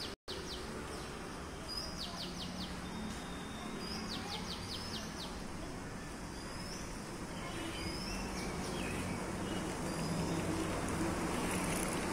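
Birds calling from roadside trees: several quick runs of short, high repeated notes and a few brief whistles, over steady outdoor background noise that grows louder near the end.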